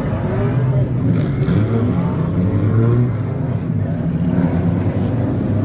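Car engines running and revving, their pitch rising and falling.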